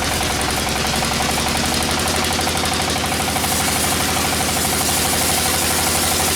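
Sawmill engine running steadily at a constant speed, with an even hiss over its low, rapid pulse.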